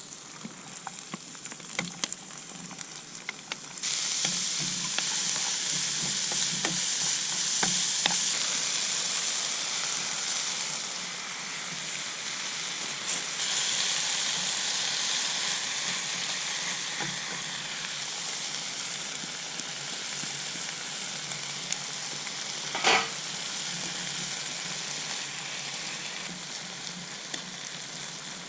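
Garlic rice frying in a pan over a campfire, stirred with a spatula. Light taps and clicks at first, then a loud sizzle sets in suddenly about four seconds in and keeps going, with one sharp knock about three quarters of the way through.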